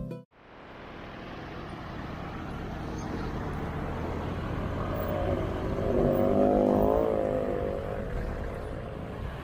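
Road traffic noise, with one motor vehicle passing close about six to seven seconds in, its engine note rising and falling as it goes by.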